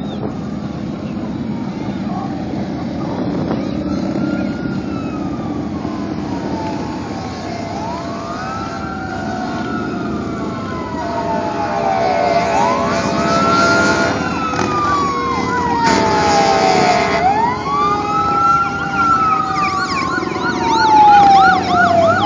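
Emergency-vehicle sirens wailing, several overlapping, each rising quickly then falling slowly over about four seconds and growing louder, over a steady rumble of vehicle engines. Near the end a siren switches to a fast yelp.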